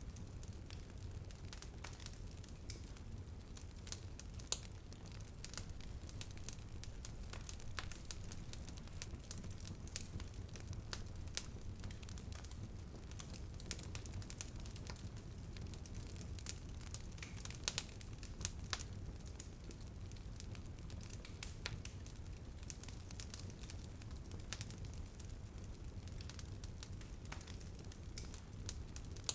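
Wood fire crackling in a fireplace, with many small irregular pops and snaps over a low steady rumble. A few sharper pops stand out, one about four seconds in and a pair near eighteen seconds.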